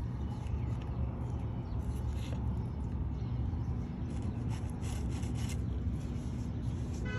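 Soft rubbing strokes of a brush working resin into fiberglass strips, heard over a steady low rumble.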